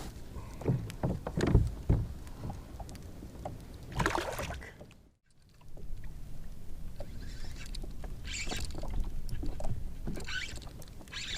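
A kayak on the water: water splashing and sloshing against the hull over a steady low rumble, with several sharp knocks in the first two seconds. The sound cuts out briefly about five seconds in.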